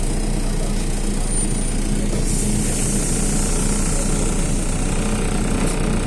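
MAZ-215 articulated city bus under way, its diesel engine humming steadily with road noise; a high hiss joins about two seconds in.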